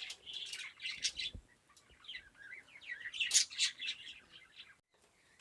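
Small pet parrots chirping, short high calls in two spells of rapid chirps that die away near the end.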